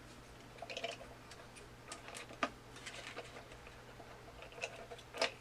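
Plastic parts of a Lemax Eerie Go Round's mechanism being handled and fitted back together: scattered light clicks and taps, the sharpest about two and a half seconds in and another near the end.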